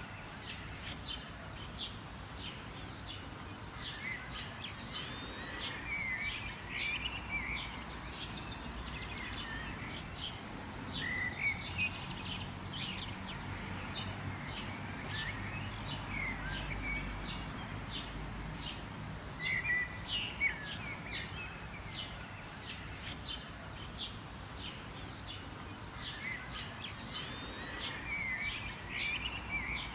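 Several small birds chirping and calling continuously: rapid short sharp notes mixed with warbled phrases, over a low steady background noise.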